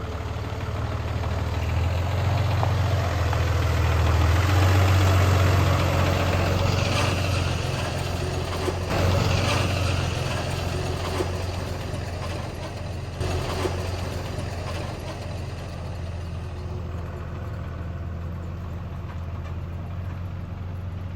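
Large truck engine running at a steady idle, a little louder about four to six seconds in.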